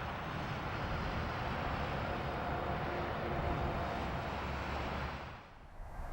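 Airbus A350-900 jet engines (Rolls-Royce Trent XWB) running: a steady rushing roar with a faint steady whine through the middle. The sound drops away suddenly about five and a half seconds in.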